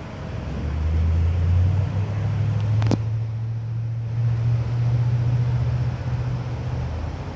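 A motor vehicle's engine running close by: a low hum that comes in about a second in and rises gently in pitch before easing off near the end, with one sharp click about three seconds in.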